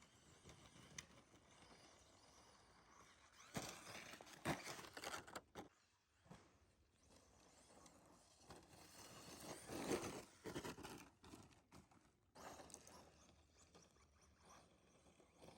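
A Tekno SCT410SL electric 4x4 RC short-course truck is running in snow and is heard faintly. Its motor whine rises and falls, with louder bursts at about four seconds in and again at about ten seconds.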